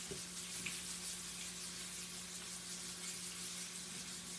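Flour-dredged chicken livers frying in oil in an electric skillet: a steady sizzle, with a faint steady hum underneath.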